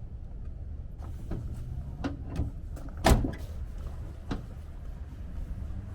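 Several short knocks and clunks over a steady low rumble, the loudest clunk about three seconds in.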